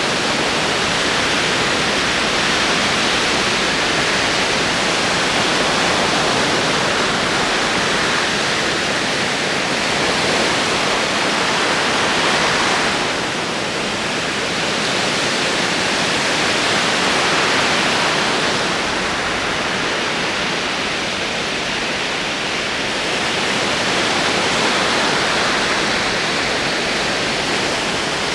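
Ocean waves rolling onto a shore: a continuous rush of surf that swells and eases every several seconds.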